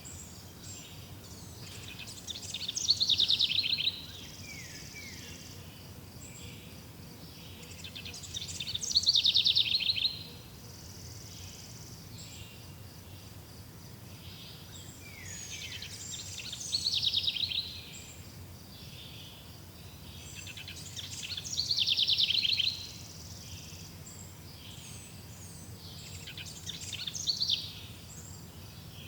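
A songbird repeating the same short trilled song phrase five times, about every six seconds, each phrase falling in pitch as it goes. A steady low background hum and faint high chirps run beneath it.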